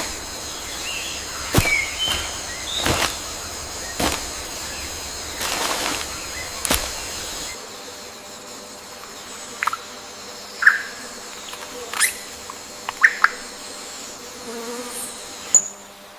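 Forest ambience: a steady, high-pitched insect drone, cicada- or cricket-like, with short bird chirps and calls scattered through it. The drone stops shortly before the end.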